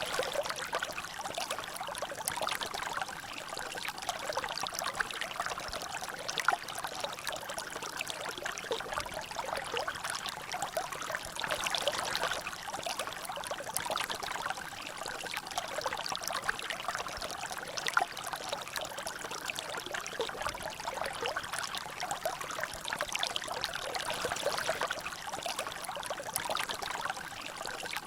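Water trickling and dripping steadily in a small natural drainage, a continuous splashing flow with many small drops and one louder splat about 18 seconds in.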